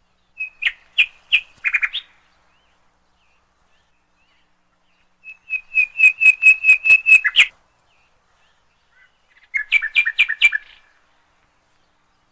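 Bird calls: three short phrases of rapid, evenly repeated chirps, one at the start, one about five seconds in and one near ten seconds, with silence between.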